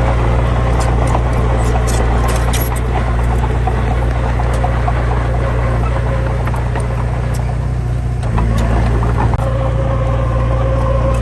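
Heavy diesel engine running steadily with a deep, loud drone, with scattered light clicks and rattles in the first few seconds. The engine note shifts slightly about eight seconds in.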